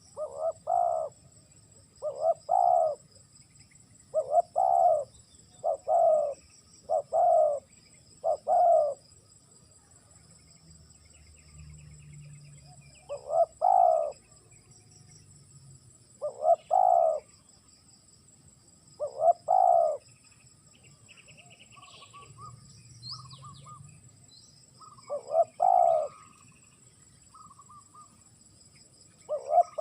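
Spotted dove cooing: short, loud coos, six in quick succession over the first nine seconds and then spaced out every few seconds. A steady high insect drone runs underneath.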